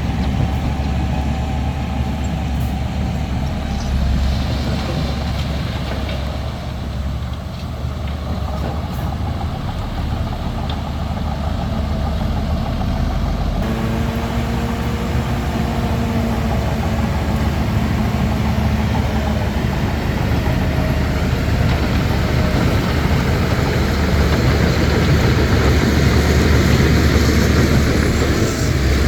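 Bulldozer's diesel engine running, a steady drone that grows louder near the end.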